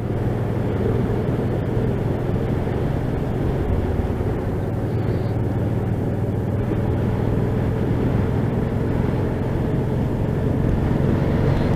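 Motorcycle engine running steadily under way, with wind and road noise, heard through a mic fitted inside the rider's helmet. A low, even hum with no change in engine speed.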